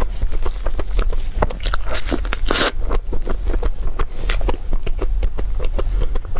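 A person biting and chewing food close to the microphone, with dense, irregular crisp crunching and crackling.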